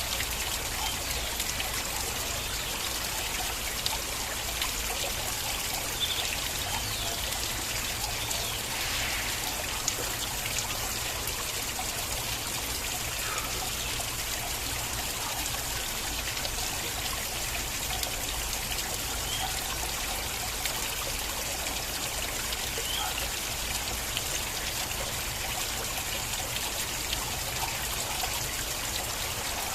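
Water flowing and trickling in a stream, a steady rush with small splashes and drips scattered through it.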